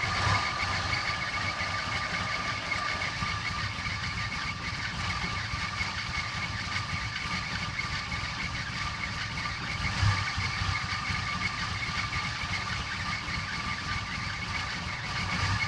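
Toyota Cressida engine idling roughly, an uneven low rumble with a steady high-pitched whine over it and a slightly louder stumble about ten seconds in.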